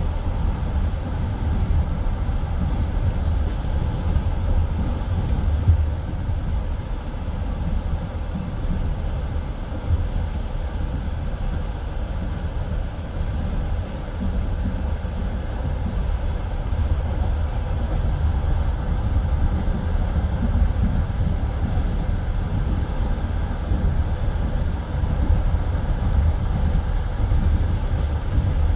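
Passenger train coach running along the track: a steady low rumble of wheels on rails, with an occasional louder knock from the wheels.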